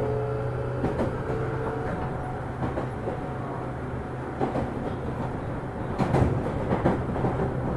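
Interior running sound of a JR Saikyo Line 205-series electric train, heard in motor car MoHa 205-287, travelling between stations. A whining tone from the drive fades out about two seconds in, and the wheels knock over rail joints around six seconds in.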